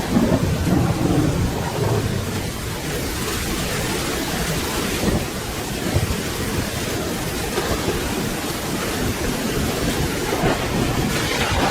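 Steady rain falling, with a low rumble of thunder in the first two seconds or so that dies away, leaving the even hiss of the rain.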